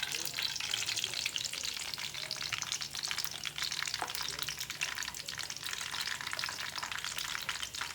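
Tapioca-starch batter frying in a pan of oil, a steady crackling sizzle dotted with fine pops. The oil is not yet fully hot.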